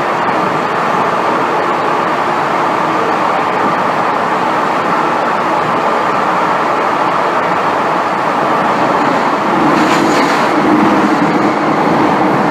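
Running noise of an MTR M-Train heard from inside the carriage: a steady rumble of wheels and motors. It grows a little louder, with a lower hum, near the end.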